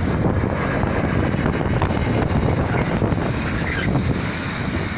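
Container freight train passing over a level crossing: a steady rumble and clatter of the wagons' wheels running on the rails.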